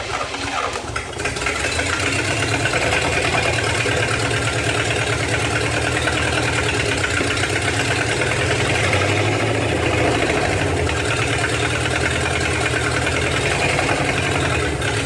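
1956 Chevrolet 265 small-block V8 running, fed fuel from a bottle to keep it going. It picks up over the first couple of seconds, then runs steadily. Mechanically sound, though the owner thinks it still has a spark plug or plug wire problem.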